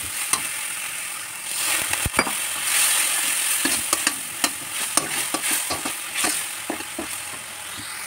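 Spiced onion-garlic masala frying and sizzling in hot oil in an iron kadhai, stirred with a spatula that knocks and scrapes against the pan many times.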